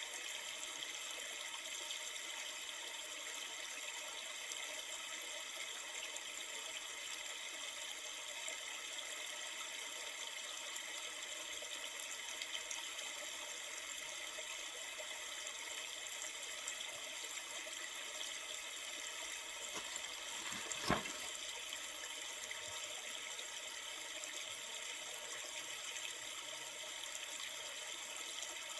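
Steady rushing of river water, an even flowing wash with no change. About three quarters of the way through there is a single short click.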